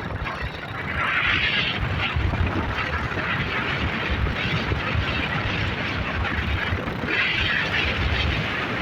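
Yamaha YBR motorcycle's single-cylinder engine running on the move, a steady low rumble under rushing noise. The rushing noise swells twice, about a second in and again about seven seconds in.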